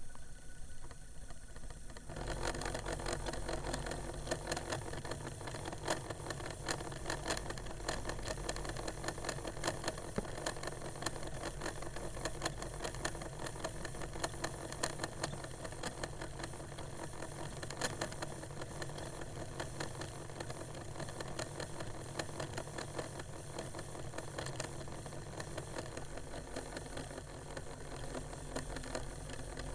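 Old 1980s-era Discman portable CD player's disc motor whirring with a fast, dense rattle and clicking, starting about two seconds in. It keeps trying to spin the disc up to speed but lacks the power to get there.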